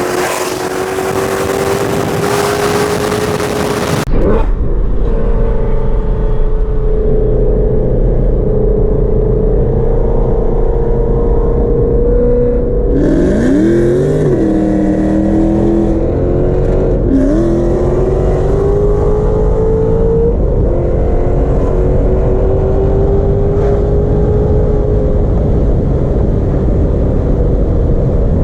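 V8 muscle car engine pulling hard under throttle, its pitch climbing steadily, with two quick gear shifts about halfway through and a few seconds later where the pitch drops and climbs again. It opens with a few seconds of loud rushing noise before a cut.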